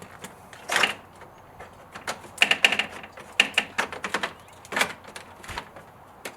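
Car's plastic bumper cover being fitted back on: a run of sharp plastic clicks and knocks, with a quick cluster of clicks a little over two seconds in and single knocks later.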